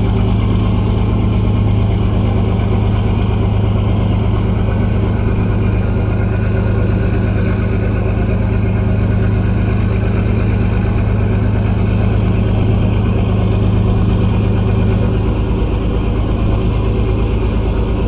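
An engine running steadily at an even idle, a low hum that does not change speed.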